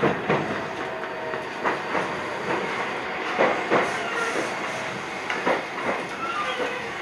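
Iyotetsu 3000-series electric train running on the rails, its wheels clattering over rail joints in irregular clicks and thumps over a steady rumble, with a few faint short squeals.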